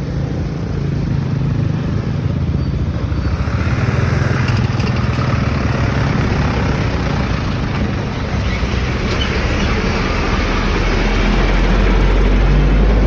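Road traffic passing close by: vehicle engines running steadily, with a deeper low rumble swelling near the end.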